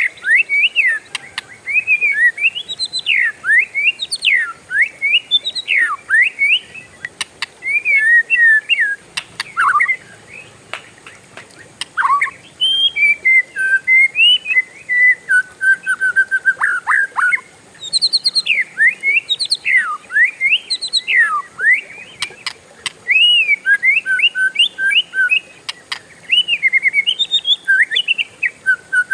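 Oriental magpie-robin (kacer) singing a long, loud run of rapid, varied whistled notes and sweeps, the continuous rolling song that keepers call ngerol. The song comes in long phrases with a few short pauses.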